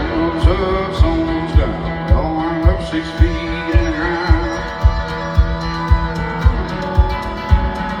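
Live country band playing: guitars over a steady kick drum beating about twice a second, with a wavering lead melody.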